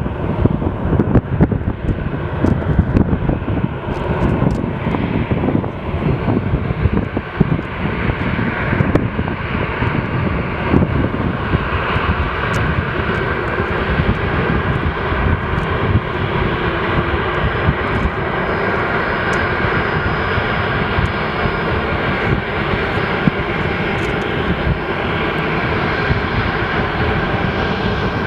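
Airplane engines running, with a steady whine that comes in about halfway and holds. Wind buffets the microphone, strongest in the first half.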